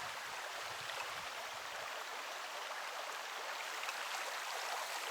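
Flowing river water: a steady rushing hiss.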